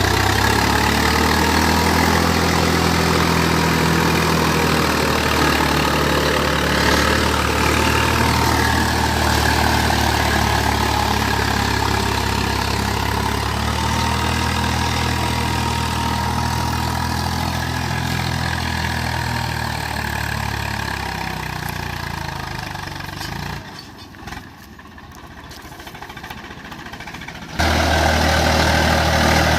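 Swaraj 855 FE tractor's diesel engine running steadily. Near the end the sound falls away to a faint level for about four seconds, then comes back abruptly at full strength.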